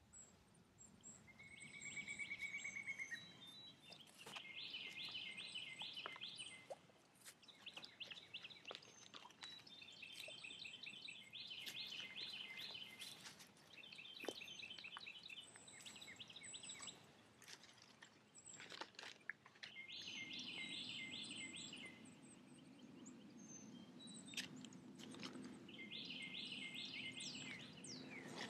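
A songbird singing short phrases of fast repeated high notes, one every few seconds, over a quiet outdoor background with scattered faint clicks and rustles.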